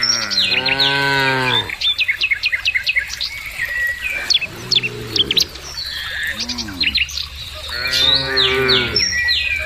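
Cows mooing several times: a long moo that ends about a second and a half in, a lower, shorter one midway, a brief one after it, and another long moo near the end. Small birds chirp throughout.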